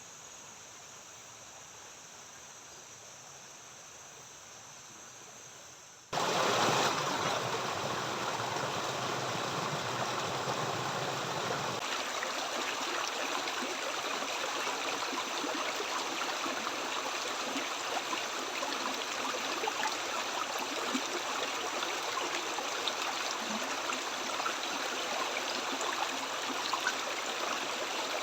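Flowing river water: a steady, even rush that cuts in abruptly about six seconds in, after a quieter stretch with faint steady high-pitched tones.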